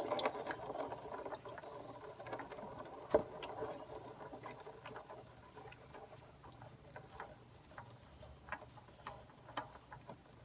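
Engine oil pouring out of the oil filter mount into a drain pan, tapering off within a couple of seconds into scattered drips, with one sharp click about three seconds in.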